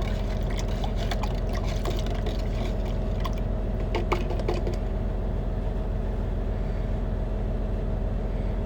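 A truck's diesel engine idling steadily, with small clicks and taps over the first few seconds, the loudest about four seconds in.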